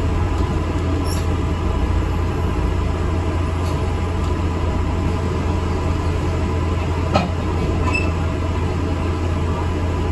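Inside an ADL Enviro 400 MMC double-decker bus: steady low engine and road rumble, with a short sharp knock about seven seconds in.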